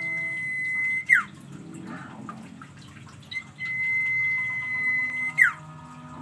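Sirtu songbird singing its drawn-out song twice: each phrase is a long, steady, high whistle ending in a quick falling note. The first whistle is short, and the second, starting about halfway in, is held for about two seconds.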